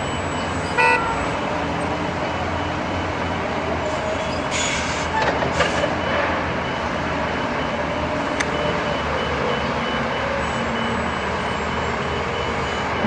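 Heavy truck diesel engine running steadily, with a short horn toot about a second in and brief bursts of hiss around five seconds in.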